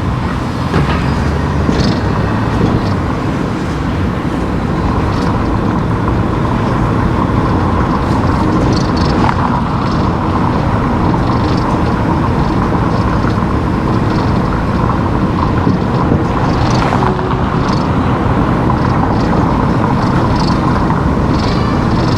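Car driving along a road: steady engine and tyre rumble with a faint steady hum, and a few brief light ticks.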